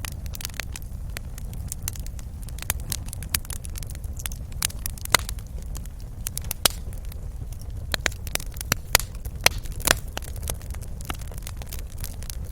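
Wood fire crackling in a fireplace: irregular sharp pops and snaps over a steady low rumble of flames, with a cluster of louder pops in the second half.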